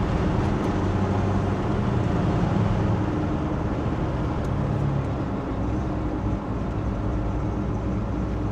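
Custom 1983 Chevy C10 pickup cruising, its engine running steadily under road noise as heard from inside the cab.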